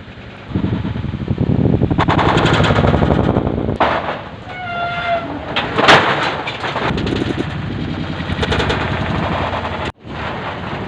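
Hail pelting down hard in a fierce storm: a dense, rapid clatter of impacts that starts about half a second in and grows louder, with a sudden break near the end.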